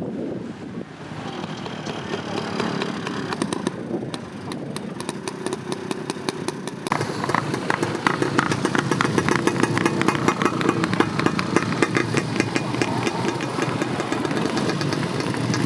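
A vintage motorcycle engine running, its rapid firing pulses growing louder from about seven seconds in.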